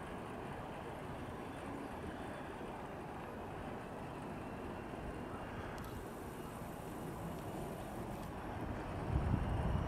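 Steady rumble of a freight train's tank cars rolling on the rails. Near the end a deeper diesel locomotive engine sound swells in and grows louder.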